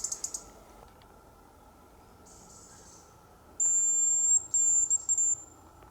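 Hazel grouse decoy whistle blown close by: a thin, very high, steady whistle in three parts, two long notes and a short last one, imitating the hazel grouse's call. A few faint high chirps come just before it at the start.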